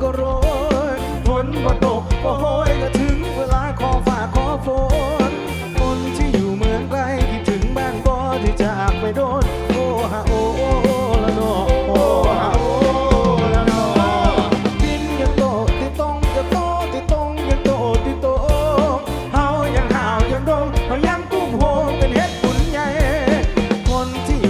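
Live band music: a steady beat on drum kit and bass with a wavering lead melody line over it.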